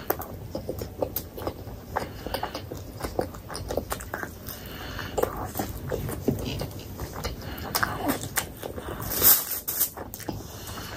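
Close-miked chewing and wet mouth smacks of someone eating paratha, with many small clicks in quick, irregular succession and one louder, noisier burst about nine seconds in.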